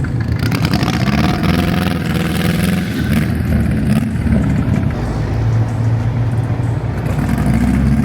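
Car engines running at low speed, one revving up with a rising pitch about a second in, over a steady low engine hum.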